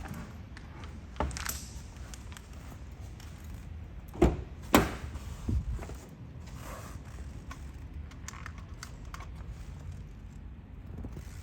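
A few sharp knocks and clicks over a steady low rumble, the loudest two close together about four to five seconds in.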